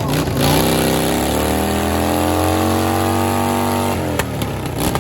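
A car engine revving: the pitch climbs steadily for about three seconds, is held briefly, then drops away suddenly about four seconds in.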